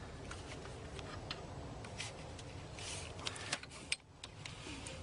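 Scattered small metallic clicks and ticks of a wrench working a small bolt loose and out of the alternator housing, with a cluster of them about two to three seconds in.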